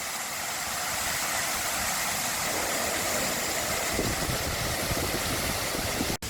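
Waterfall rushing steadily in a dense, even roar, with wind buffeting the microphone in the second half. The sound drops out for an instant near the end.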